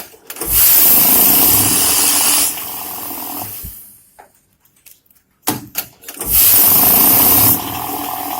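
Glory GNH-710 banknote counting machine feeding a stack of notes: a loud whirring rush of paper through the rollers that drops to a lower motor hum and stops, then a few clicks and a second run starting near the end. The machine is miscounting, a fault the uploader puts down to a worn PRS unit from lack of maintenance.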